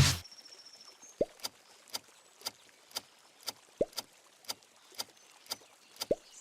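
A clock-style countdown timer ticking about twice a second, with a short upward-gliding blip three times along the way: the guessing-time countdown sound effect.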